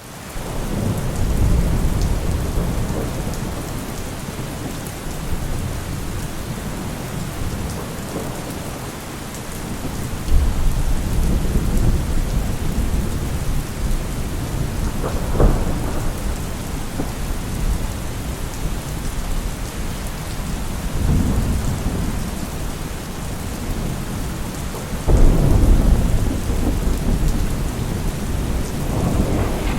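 Heavy rain falling steadily with thunder rumbling almost without pause. Louder peals swell in about ten seconds in and again near twenty-five seconds, with a sharper crack around fifteen seconds.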